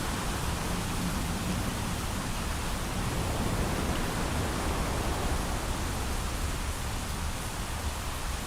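Steady heavy rain pouring, an even hiss with a constant low rumble underneath and no thunderclap.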